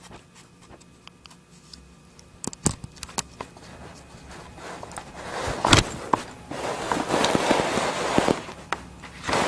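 Rustling and scraping noise with scattered sharp clicks, growing louder about halfway through; no fox call.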